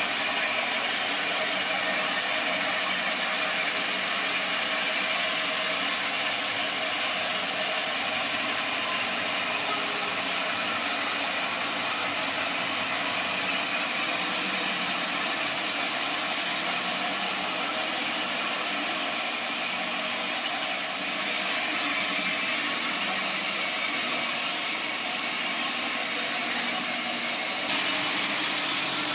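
Sawmill machinery running steadily, a continuous even mechanical noise with no breaks.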